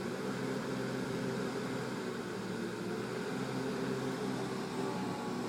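Bulldozer's diesel engine running steadily at raised throttle. A higher whine comes in near the end, rising slightly in pitch.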